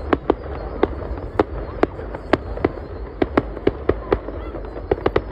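Fireworks going off: an irregular run of sharp bangs, about three a second, over a steady low rumble.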